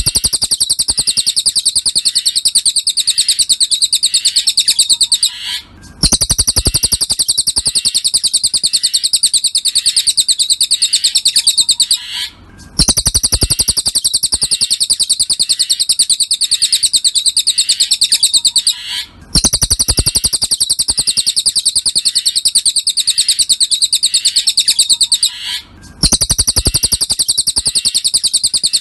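Cililin (small minivet) song played as a masteran tutor loop: a fast, high, continuous trill of rapid notes in phrases about six seconds long, each broken by a brief pause, repeating identically.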